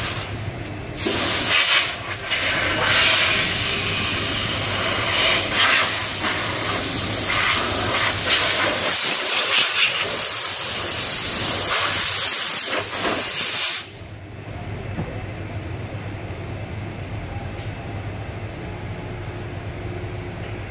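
Compressed air hissing from a pneumatic tool for about thirteen seconds, then cutting off suddenly. A quieter steady hum from shop equipment is left running.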